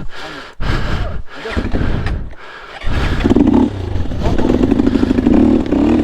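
Dirt bike engine labouring on a hard trail climb: irregular blips of throttle with brief drops for the first few seconds, then held at high revs from about three seconds in as the bike struggles through.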